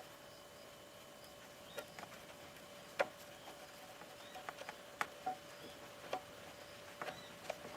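Scattered light clicks and taps, the sharpest about three and five seconds in, over a faint steady high-pitched hum.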